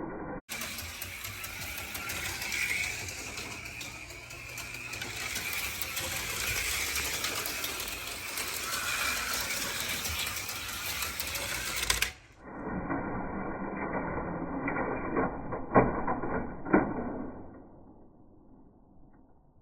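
HO slot cars running on a plastic track: small electric motors buzzing, with rattling and clicking of the cars. Near the end come two sharp clacks, then the sound fades out.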